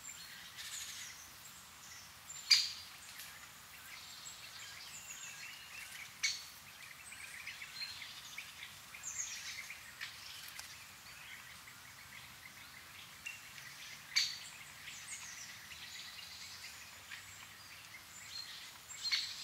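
Wild birds calling: scattered short chirps over a faint steady hiss, with two louder, sharper chirps, one a few seconds in and another about two-thirds through.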